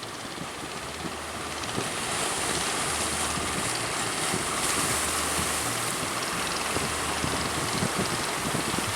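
Strong wind rushing over the microphone along with the wash of sea waves, getting louder about two seconds in, with a low hum that comes and goes underneath.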